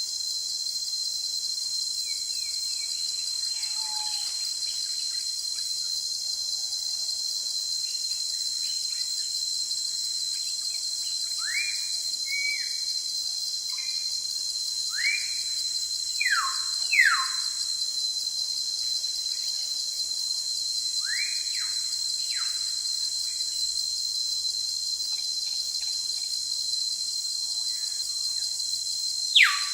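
Forest ambience: a steady high-pitched insect drone throughout, with birds calling in short whistled notes that sweep up, several in the middle stretch. The loudest are two quick falling whistles at the very end.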